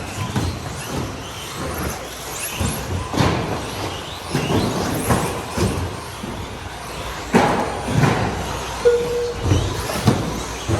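Electric radio-controlled stadium trucks racing on an indoor track: motors whining up and down in pitch, with repeated knocks and thuds of the trucks landing and hitting the track.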